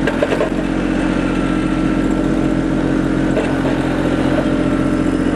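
Kubota LX2610 compact tractor's three-cylinder diesel engine running at a steady speed.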